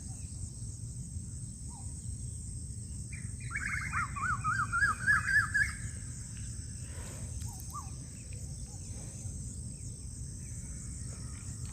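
A songbird singing one quick warbling phrase of rapidly rising-and-falling notes, about two seconds long, starting roughly three seconds in, with a few faint short calls later, over a steady outdoor background hiss and low rumble.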